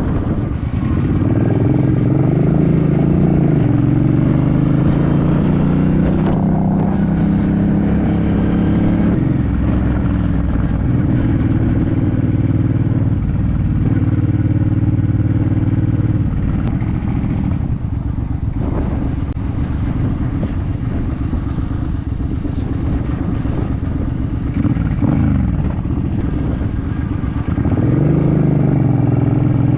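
2006 Suzuki C50 motorcycle's V-twin engine running under way. It climbs in pitch as the bike accelerates in the first few seconds, holds steady while cruising, then pulls up again near the end.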